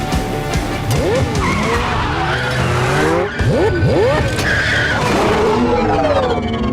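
Movie car-chase sound effects: engines revving hard, with rapid rising and falling whines and tyres squealing and skidding.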